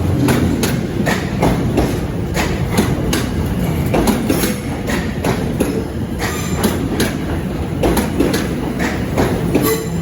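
Passenger train rolling over rail joints and points: a steady rumble with the wheels clicking about two or three times a second.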